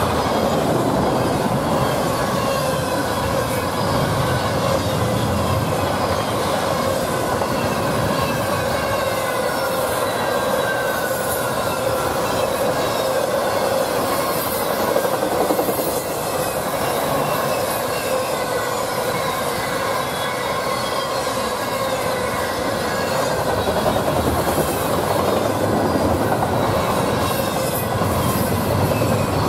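Double-stack intermodal freight train cars rolling past close by: a steady, loud noise of steel wheels on rail, with high squealing from the wheels that wavers up and down in pitch.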